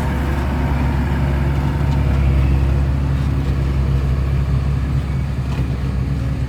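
Hino dump truck's J08C inline-six diesel engine running steadily, a low, even drone with no change in pitch.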